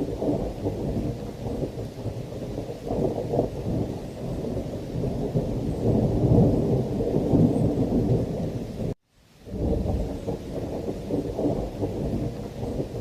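Thunderstorm: a continuous low, crackling rumble of thunder with heavy rain. It builds up a little past the middle, then cuts out suddenly for a moment about nine seconds in before starting again.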